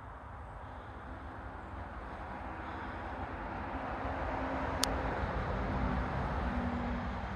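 Rushing noise of a vehicle approaching, with a low hum, getting steadily louder until about six seconds in and easing near the end. One sharp click about five seconds in.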